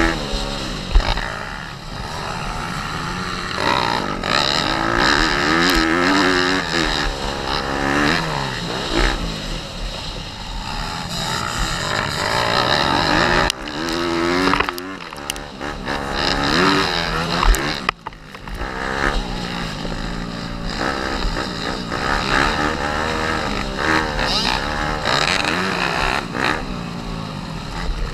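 Pit bike engine ridden hard, revs climbing and falling every few seconds as it is throttled on and off, over low wind rumble on the microphone. The sound briefly drops away a couple of times.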